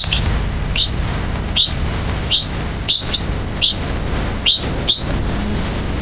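A bird calling over and over: eight short, high chirps, each dropping in pitch, coming about every half second to one second. A steady low rumble runs underneath.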